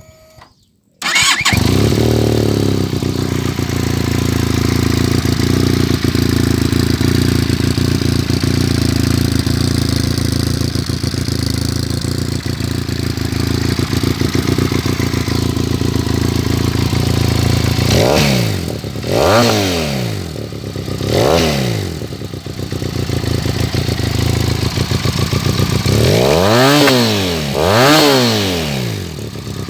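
Benelli Leoncino 500's parallel-twin engine, breathing through a GPR Powercone silencer with the catalytic converter removed, starting about a second in and settling into a steady idle, then revved in four short throttle blips in the second half.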